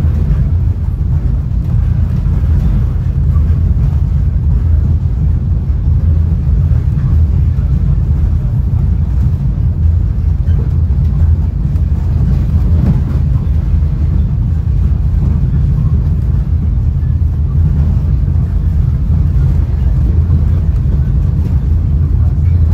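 Steady low rumble inside a Caltrain Gallery bilevel passenger car travelling at speed, its wheels running on the rails.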